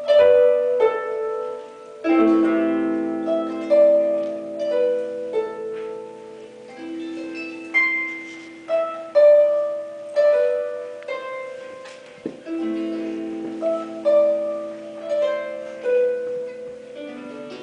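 Solo harp music: a slow melody of plucked notes that ring and fade over held lower chords, with new bass notes struck about two seconds in and again near the middle.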